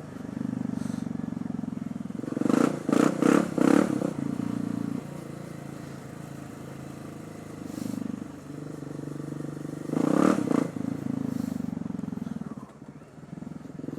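Supermoto motorcycle's single-cylinder engine running steadily under way, with short loud rushes of noise a few times around three seconds in and again around ten seconds in.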